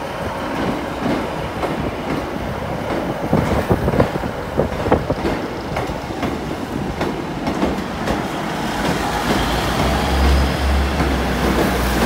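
A Class 156 Sprinter diesel multiple unit running past as it pulls away, its wheels clicking in an irregular run over the rail joints. A deep engine rumble swells near the end as the coupled second unit goes by.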